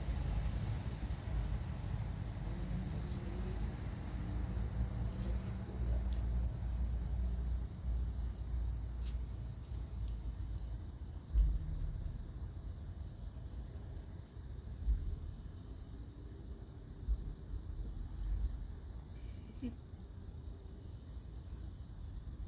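Crickets chirping steadily in a continuous high-pitched pulsing chorus. Underneath is a low rumble, with a few soft bumps about 11, 15 and 17 seconds in.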